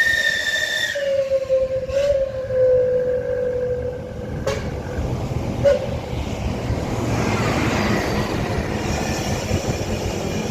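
A vehicle running with a steady whine that slowly falls in pitch over the first few seconds and fades, then a rumbling noise, with a couple of sharp clicks.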